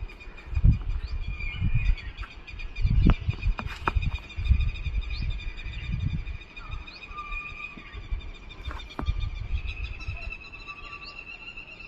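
Birds chirping outdoors in short calls over a steady high-pitched trill, with repeated bursts of low rumble that are loudest in the first half.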